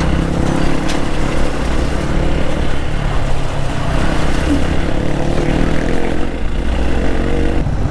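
Hero XPulse 200 single-cylinder motorcycle engine running steadily while riding, under a haze of wind noise.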